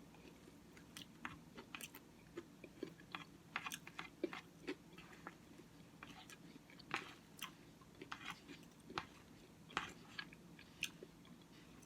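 Faint close-miked eating sounds as a bowl of Cookie Crisp oatmeal made with milk is eaten: chewing with many short, sharp mouth smacks and clicks scattered irregularly.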